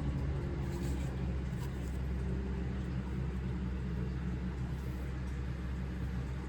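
Steady low hum or rumble, with a few faint ticks or rustles over it.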